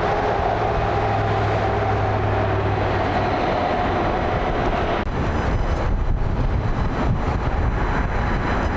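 Boeing 787 Dreamliner jet engines running loud, a steady rush of noise with a held hum. About five seconds in the sound changes abruptly to a rougher, fluttering rush.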